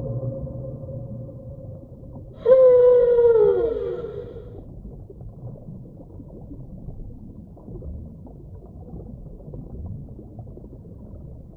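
Whale calls: a held tone fades out at the start. About two and a half seconds in, a loud call begins abruptly and slides down in pitch over about a second and a half. A low, steady hiss follows with no calls.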